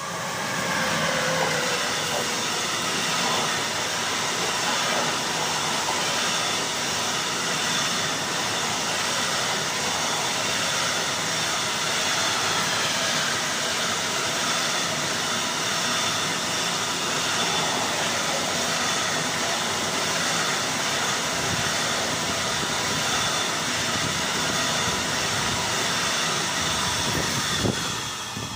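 Freight train passing at speed behind an electric locomotive. A tone falls in pitch as the locomotive goes by in the first second or so, then comes a long, steady rush of the loaded car-carrier wagons rolling over the rails. The sound drops away right at the end as the last wagons pass.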